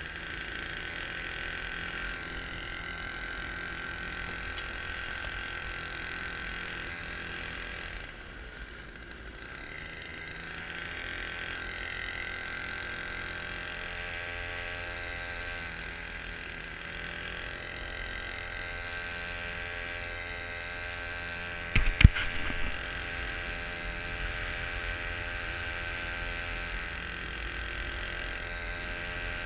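Small motor on a motorized kayak running steadily, with a constant high whine over a low rumble. A short cluster of sharp knocks partway through is the loudest sound.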